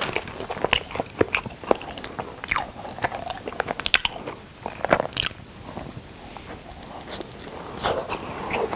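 Close-miked biting and chewing of a small dark, lumpy round snack: crisp crunching bites and wet mouth sounds, with the crunches thickest in the first half.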